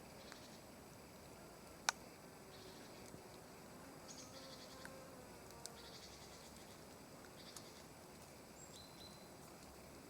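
Quiet forest ambience: faint bursts of high, rapidly pulsed chirping, from insects or small birds, come and go several times, with a couple of brief high whistled notes near the end. A single sharp click about two seconds in is the loudest sound.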